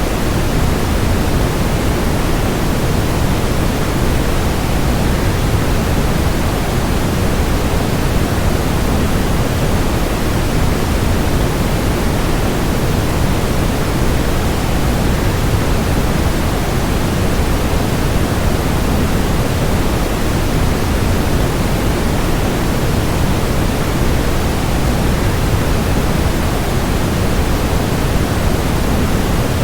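Steady, unchanging rushing noise, heaviest in the low end: a waterfall sound mixed with white noise for relaxation.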